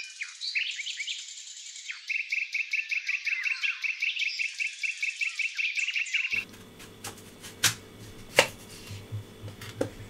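Songbirds chirping, with a fast, even run of repeated chirps from about two seconds in. About six seconds in it changes abruptly to a quiet room, where a few sharp knocks sound on a wooden cutting board.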